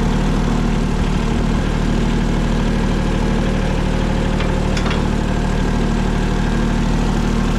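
Small tractor's engine running at a steady idle.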